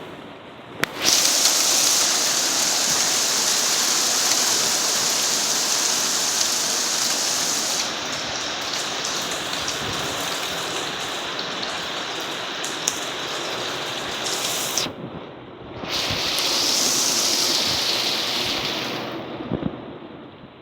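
Heavy rain and hail pelting down in a thunderstorm: a loud, steady rush that starts about a second in, drops out briefly near the end, then comes back.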